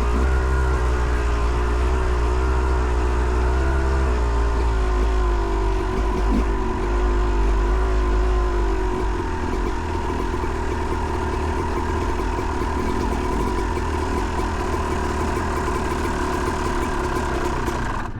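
Two-stroke engine of a 2008 Yamaha YZ250 dirt bike running at a fairly steady speed, its pitch wavering slightly with small throttle changes. It gets a little quieter about halfway through.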